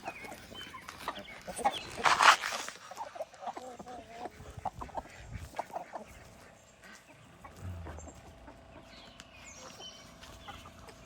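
Chickens clucking in short scattered calls, with a brief loud rush of noise about two seconds in.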